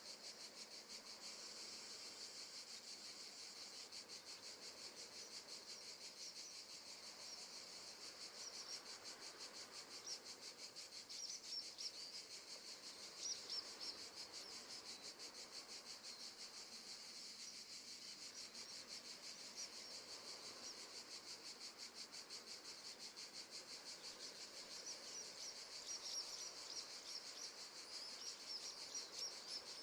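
Faint crickets chirping in a steady, fast-pulsing high trill, with a few brief higher chirps now and then.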